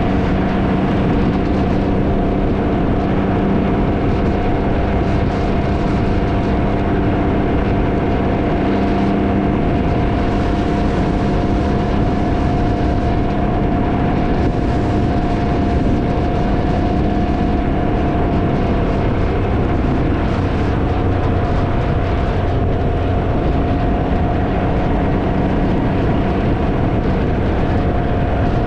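Heavy wind buffeting on the microphone over a Can-Am Ryker three-wheeler's engine running steadily at a constant cruising speed, its engine note holding an even pitch.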